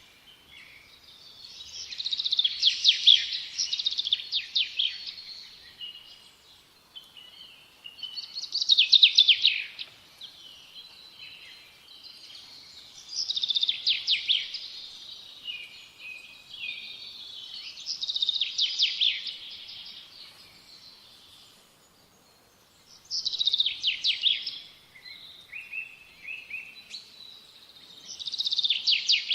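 A songbird singing, repeating a short, high, rapidly trilled phrase of about two seconds roughly every five seconds.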